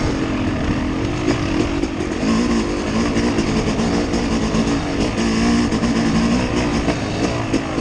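Vehicle engine running continuously under varying throttle, its pitch rising and falling, over a steady rumble of driving noise.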